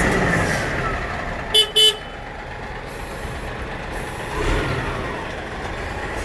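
Road traffic running, with two quick toots of a vehicle horn about one and a half seconds in.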